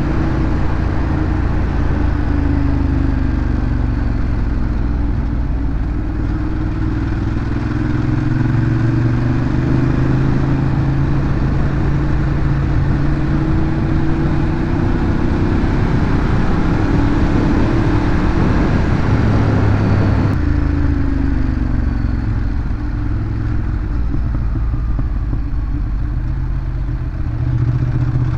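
Ducati Monster 821's L-twin engine running through its stock exhaust on the move, its pitch rising and falling again and again with the throttle and gear changes.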